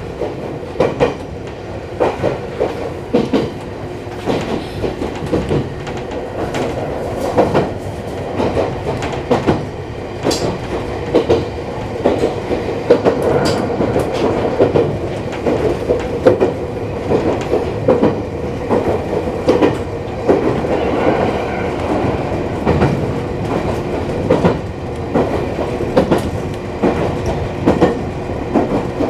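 Iyo Railway electric train running along the track, heard from inside the cab: a steady running hum with the wheels clacking irregularly over rail joints.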